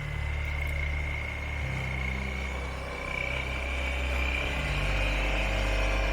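Motorcycle engine running on the road, its low note shifting a few times with the throttle, with a thin high whine alongside.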